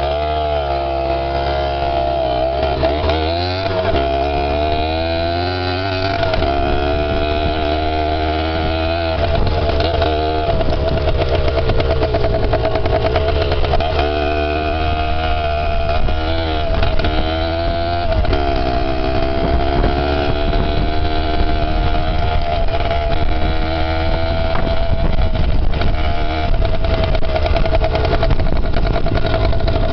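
Small off-road vehicle engine running under way, its pitch rising and falling again and again as the throttle is opened and eased off.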